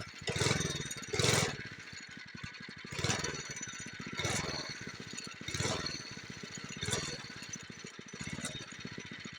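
Small off-road go-kart engine idling with a rapid pulsing beat, blipped up and back down in a series of short revs about every second or so.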